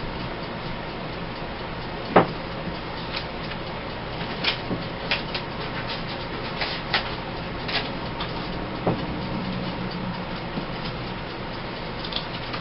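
Paper cut-outs being handled and sorted, with irregular taps and clicks, one sharp tap about two seconds in and a run of them midway, over a steady background hum.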